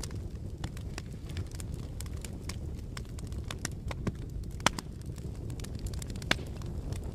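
Fire crackling: a steady low rumble of flames with frequent sharp snaps and pops, two louder pops in the second half.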